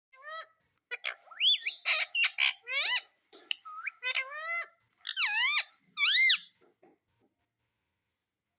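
Indian ringneck parrot giving a rapid run of shrill squeaky calls, several sweeping up and then down in pitch. It falls silent about seven seconds in.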